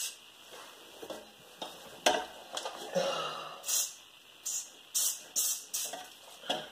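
A metal clank about two seconds in, then several short hissing bursts of penetrating lubricant sprayed from an aerosol can onto a seized rear wheel hub.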